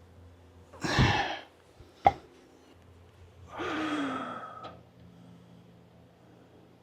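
A man lets out a heavy, breathy sigh, then a sharp knock, then a longer groan that falls in pitch.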